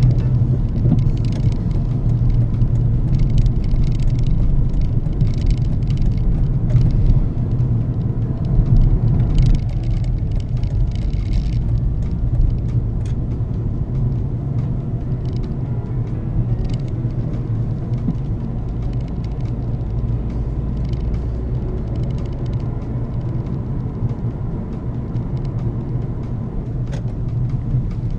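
Inside the cabin of a moving 2004 Volvo S60 2.0T: the low, steady drone of its five-cylinder petrol engine mixed with road and tyre noise. The sound eases slightly after about twelve seconds.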